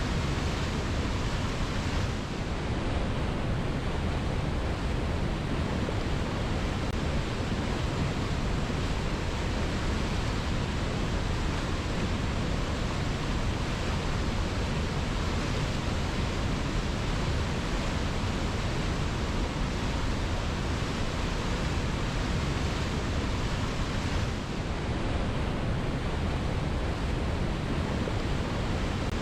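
Waterfall pouring over rocks: a steady, even rush of falling water, with two brief small dips in level, about two seconds in and near the end.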